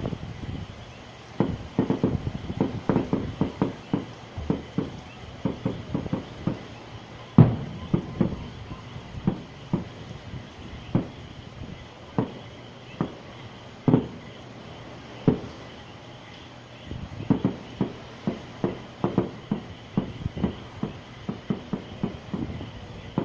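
Fireworks going off: irregular pops and bangs, some in quick clusters and some single, with the sharpest bangs about seven and a half and fourteen seconds in.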